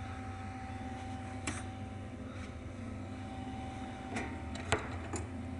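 MIG welding machine switched on and running, its fan and transformer humming steadily, with a few light clicks, the loudest near the end.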